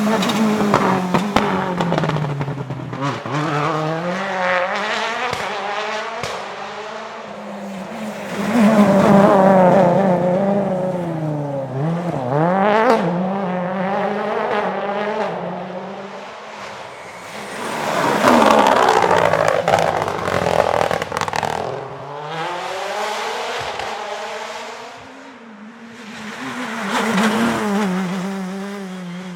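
Rally cars on a special stage, engines revving hard and dropping as they pass through gear changes and braking, several loud passes in a row, with a falling swoop in pitch near the middle.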